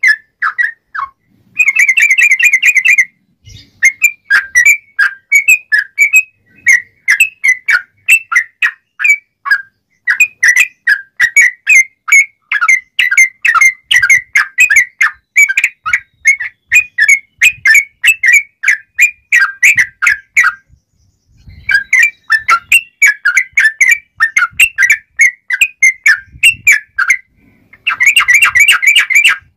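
Yellow-vented bulbul singing loudly: a fast run of short, clear whistled notes, broken by two brief pauses, with dense trilled bursts near the start and near the end.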